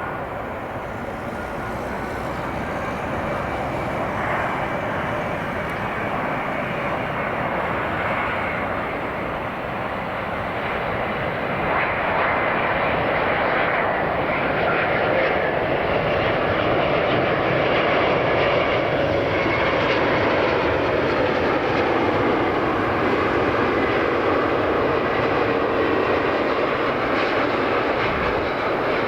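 Boeing 777-200ER airliner's jet engines during its landing approach: a steady rushing engine noise that grows louder until about halfway through, then holds, with a faint steady tone under it.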